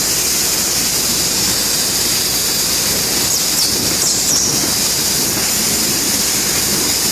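Steady machine noise with a strong hiss from a running Bystronic CNC laser cutting machine, with a couple of faint brief whistling glides near the middle.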